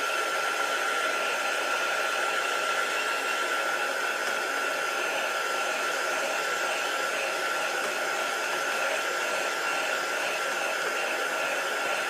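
Handheld hot-air dryer blowing steadily to dry wet acrylic paint: a rush of air with a steady motor whine.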